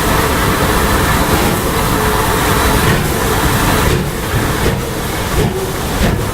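Steam train on the move: a loud, steady rumble that eases slightly and grows more uneven about four seconds in.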